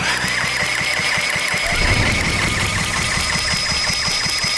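Electric drill spinning over the 1949 Briggs & Stratton WI engine for a spark test. The drill's whine rises quickly and then holds steady over a regular rapid ticking, about seven or eight a second, as the engine turns.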